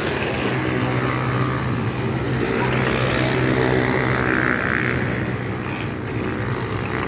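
A PET bottle struck by a bicycle wheel's spokes, buzzing steadily like a motorcycle engine as the wheel turns; the buzz swells a little in the middle and eases near the end.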